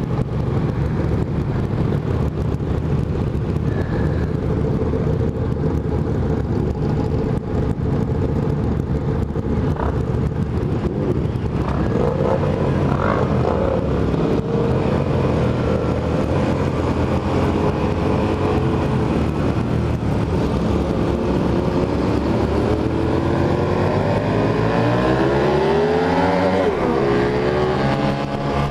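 Motorcycle engine running while riding, with wind rushing over the microphone. Near the end the engine note rises and falls in several sweeps as the revs change.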